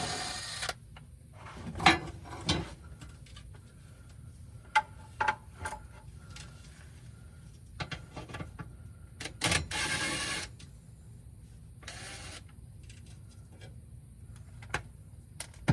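Cordless power tool, most likely an impact wrench, whirring in short bursts as it spins out the already-loosened bolts of a Lexus GS430's front cross brace, with metal clicks and clinks of bolts and tools between the bursts.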